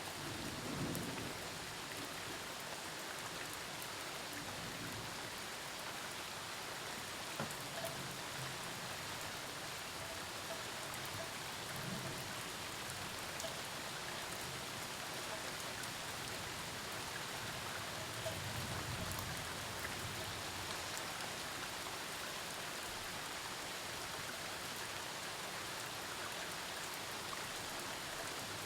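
Steady heavy rain falling. A few low rumbles of distant thunder come and go, the longest about two-thirds of the way through.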